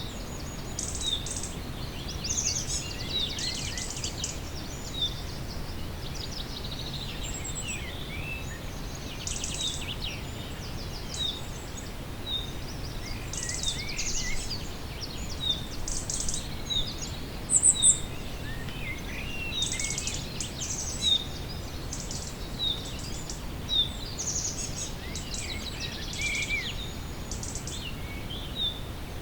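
Wild birds singing and calling: a mix of trills and chirps, with one short high note repeated about every second. Underneath runs a steady low background noise.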